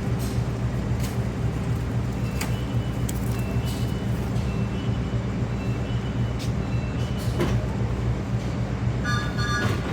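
Steady low hum of a stationary passenger train's diesel engines, with scattered clicks and knocks, and a short high train-horn sound near the end.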